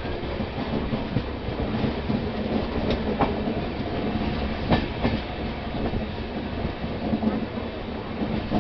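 Passenger train running along the track, heard from on board the coach: a steady rumble of wheels on rail with clickety-clack, and two sharper clacks about three and five seconds in.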